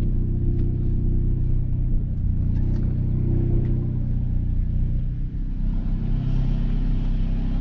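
Tuned Volkswagen Golf R's turbocharged four-cylinder engine running steadily at low revs.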